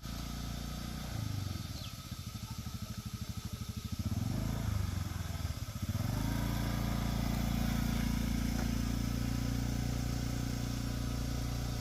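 A small engine running, its beat slow and pulsing at first, then speeding up and holding steady and louder about six seconds in.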